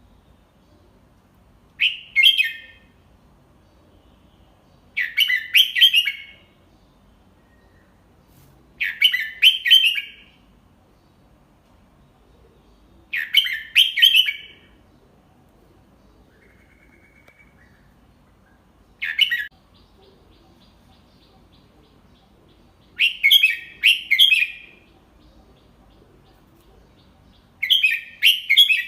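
Red-whiskered bulbul singing short phrases of a few quick whistled notes, repeated about every four seconds, with one briefer phrase midway. It is a tutor bird's song, sung slowly and clearly for young bulbuls to learn.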